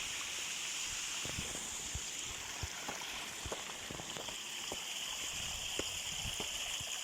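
Mountain waterfall and river rushing steadily: an even hiss of falling water, with scattered small ticks through it.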